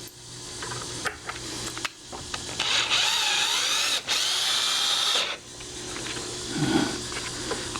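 Electric drill-driver driving screws into a deadbolt faceplate: a motor whine that wavers in pitch, starting about two and a half seconds in and running in two spells with a brief break, then stopping about five seconds in.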